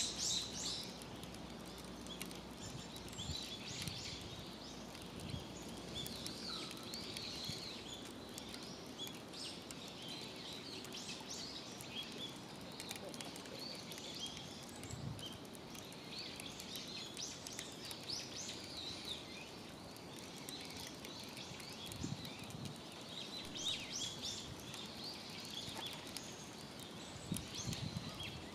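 Small birds chirping, short high calls coming and going over a faint steady outdoor hiss, with a few soft low knocks.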